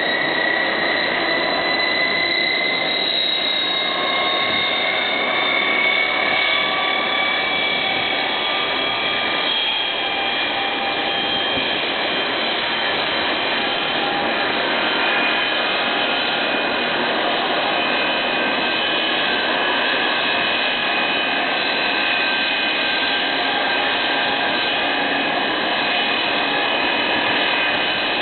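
The Rolls-Royce Dart turboprop engines and propellers of a YS-11 airliner running after start-up, a steady loud whine with several high tones over a rushing noise. One whine tone creeps up in pitch over the first few seconds as the engines and propellers speed up.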